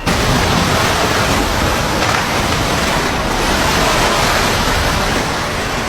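Storm wind of about 70 mph blowing hard across a phone microphone: a loud, steady rush of noise with a heavy low buffeting rumble.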